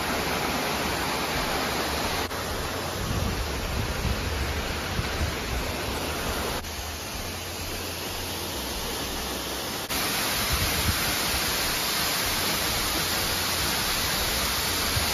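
Steady rushing noise of a waterfall, with abrupt shifts in level and tone about two, six and a half, and ten seconds in.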